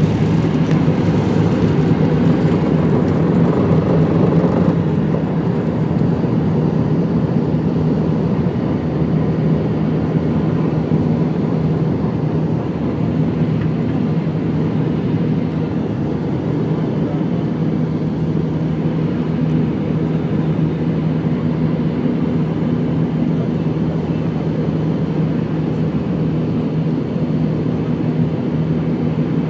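Airbus A320 cabin noise during takeoff: the jet engines and airflow make a steady, loud drone with a low hum. It is louder and brighter for the first five seconds or so, then settles to an even level.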